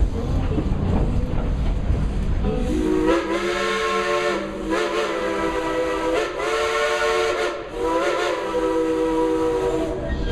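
Steam locomotive's chime whistle sounding four blasts, a chord of several notes whose pitch bends up as each blast opens, with the last blast the longest. Before the whistle the train's running rumble is heard.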